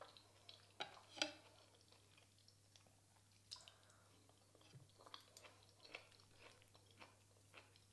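Faint close-miked chewing of someone eating, with small wet mouth clicks scattered through and a sharper click about a second in.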